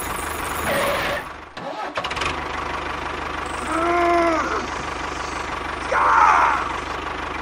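Small electric motor of a homemade toy tractor buzzing steadily as its wheels spin in wet sand. Over it come three short tones that rise and fall in pitch, about one, four and six seconds in.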